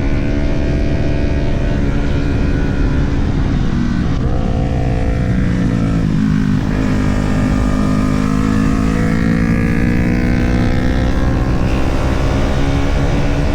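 Sport motorcycle engine under hard riding with wind rush. Its pitch drops sharply about six seconds in, then climbs steadily as the bike accelerates, eases off near twelve seconds and starts climbing again.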